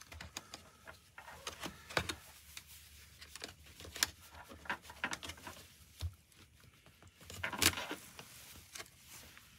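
Scattered clicks, taps and scrapes of a Cardo Packtalk Edge intercom mount being handled and pushed against a Shoei Neotec 3 helmet shell while it is being fitted, with the loudest scrape about seven and a half seconds in.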